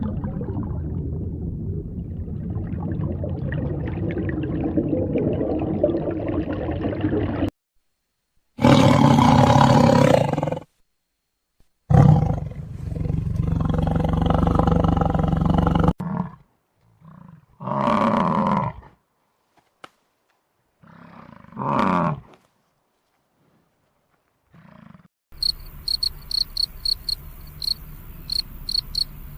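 Several separate loud, rough animal calls, each cut off sharply with silent gaps between them, followed in the last few seconds by crickets chirping in a quick, even rhythm.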